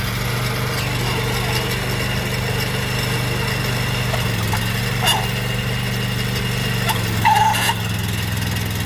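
Maxxi PF48 rice transplanter's engine running steadily, its pitch dipping slightly about four seconds in. A brief click comes about five seconds in and a short higher sound about seven seconds in.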